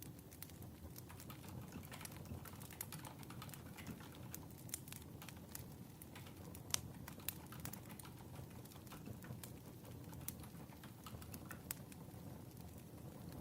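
Wood fire crackling: irregular sharp pops and snaps over a low, steady rush, with one louder pop about halfway through.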